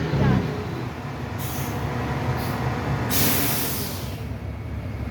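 Truck engine running while it is maneuvered, with a short hiss of air about one and a half seconds in and a longer, louder hiss about three seconds in.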